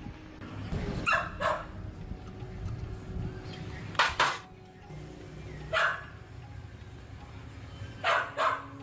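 A dog barking in short barks, singly and in pairs, about seven in all, over a steady low hum.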